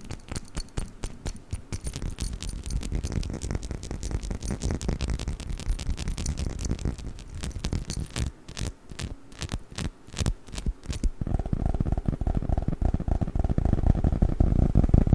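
Rapid tapping and clicking on a perfume bottle, then about eleven seconds in a change to dense crackling from handling a package of play foam, which grows louder toward the end.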